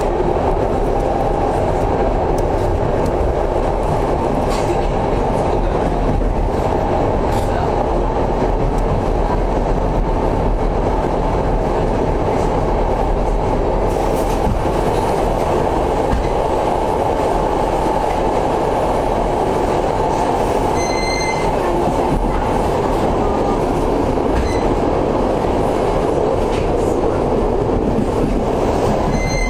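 Passenger train running steadily along the track, heard from inside the coach: a continuous rumble of wheels on rails with a few faint clicks. A brief faint high note sounds about two-thirds of the way through.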